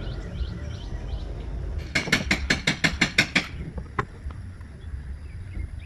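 A ratchet wrench clicking: a quick, even run of about ten clicks, then one more click a moment later.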